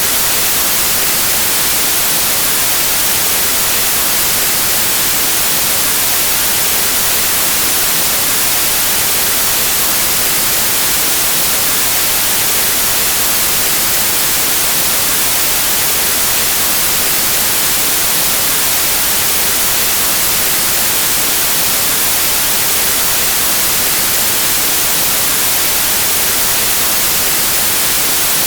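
Steady, loud white noise: an even static hiss, unchanging and with no other sound in it.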